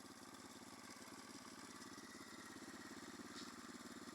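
Orion-100 moped engine running at a low, steady speed with an even putter.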